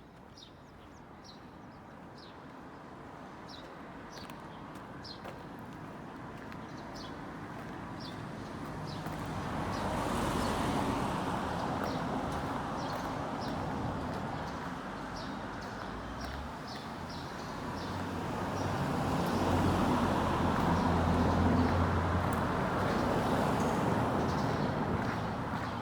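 Road traffic: vehicles passing one after another, swelling to a peak about ten seconds in and again, louder and with a low engine hum, around twenty seconds in. Short high chirps repeat about twice a second throughout.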